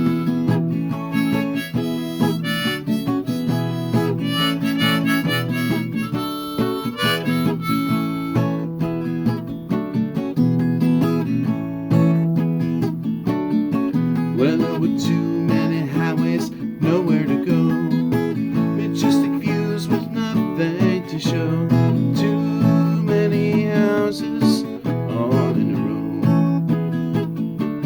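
Harmonica playing a melody over strummed acoustic guitar, a blues-tinged instrumental introduction.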